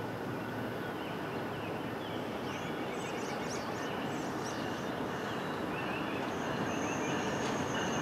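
Distant approaching electric passenger train: a steady rumble growing slowly louder, with a thin, high, steady tone joining about three-quarters in. Birds chirp over it.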